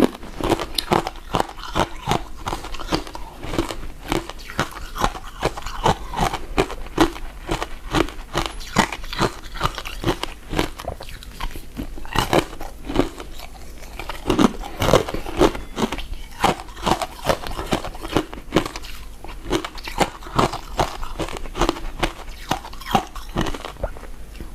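Close-miked chewing of soft, sticky glutinous rice cakes and mochi: a steady run of mouth smacks and clicks, about two a second.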